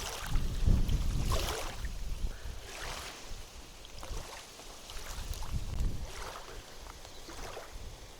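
Wind buffeting the microphone in gusts, with short swishes of water splashing around a small boat.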